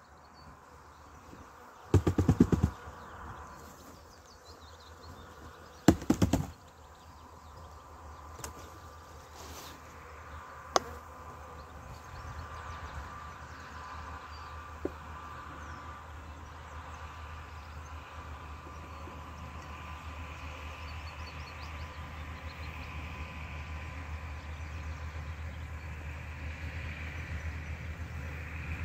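Honeybees buzzing around a swarm being moved into a nuc box, the hum growing steadily louder. Two short bursts of rapid knocking come early, about four seconds apart.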